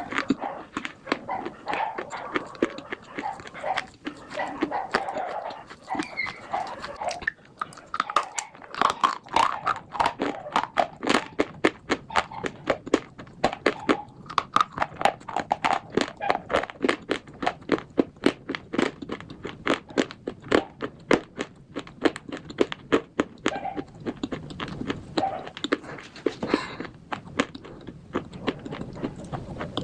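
Slate bars being chewed: rapid, crisp crunching with many sharp cracks in quick succession, denser through the middle.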